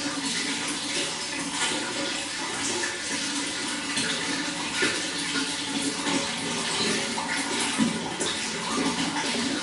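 Running water flowing steadily, with a constant rush and many small irregular splashes.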